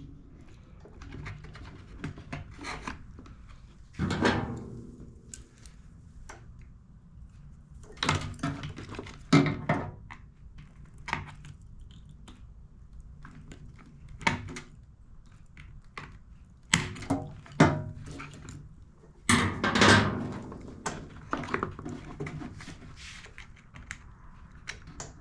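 Scattered clicks, knocks and clatter of hand tools and small metal parts being handled while new crimp terminals are fitted to wire ends, with a handful of louder knocks spread through.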